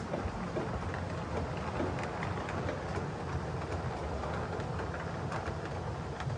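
O scale model train running on the layout's track: a steady rumble of wheels and motor with scattered small clicks.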